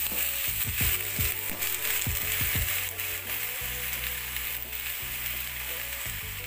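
Raw whole shrimp sizzling as they land in a hot wok. Several low knocks in the first three seconds come as the shrimp drop and settle in the pan.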